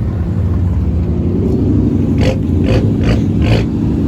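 Car engine running loud and close, a steady low drone, with four short sharp noises in quick succession a little past halfway through.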